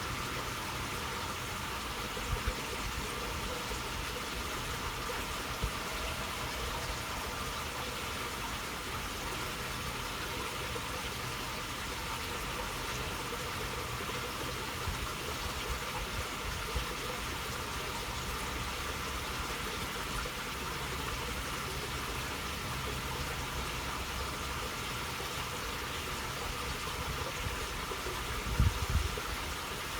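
Water flowing steadily in a shallow channel, a continuous murmur, with a few brief low thumps, the strongest shortly before the end.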